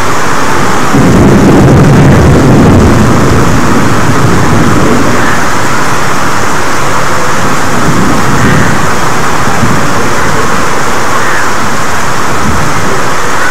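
Heavy rain falling steadily on a garden, with a low rumble of thunder starting about a second in and lasting a couple of seconds, and fainter rumbles later.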